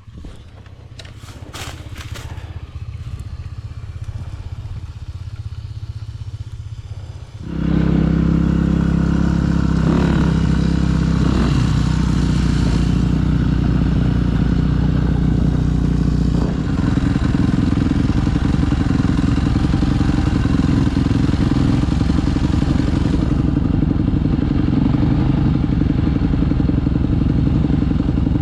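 Dirt bike engine running as the bike is ridden along a trail: fairly quiet for the first seven seconds or so, then much louder and steady from about seven and a half seconds in as the throttle is opened.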